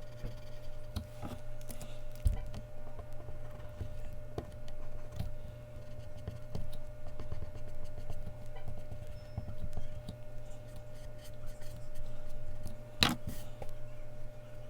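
Mechanical pencil scratching and tapping on Bristol paper in small irregular strokes, with one sharper knock near the end, over a steady low hum.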